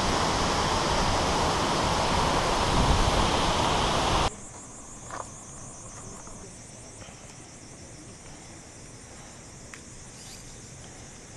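A loud, even rushing noise for about four seconds, cut off abruptly. After the cut, insects chirr steadily in a high, rapid pulsing pattern, with a few faint ticks.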